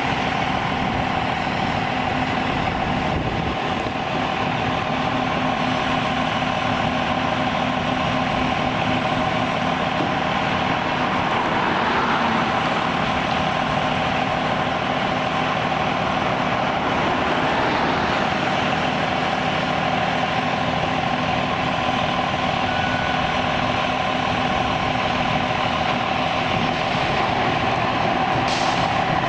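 A heavy truck's engine running steadily, with a constant whine over its rumble and slight swells a few times.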